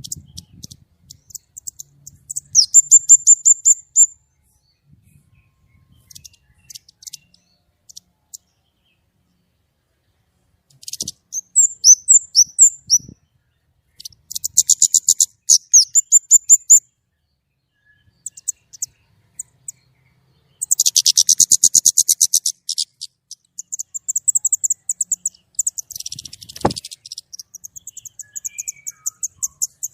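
White-rumped shama singing vigorously in phrases of fast, high repeated notes fired off in rapid volleys, with pauses of a few seconds between phrases.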